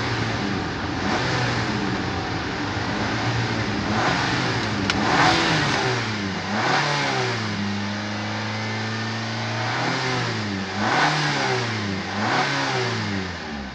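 2017 Nissan X-Trail's 2.5-litre four-cylinder petrol engine revved in Park, heard from inside the cabin. It rises and falls several times between about 3,000 and 4,000 rpm, holds steady for a couple of seconds past the middle, and drops back at the end.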